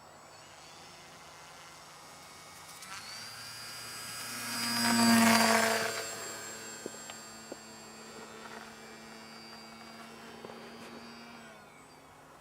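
Radio-controlled model plane's motor and propeller passing close overhead: a steady whine that swells to loudest about five seconds in, then fades away over the next several seconds.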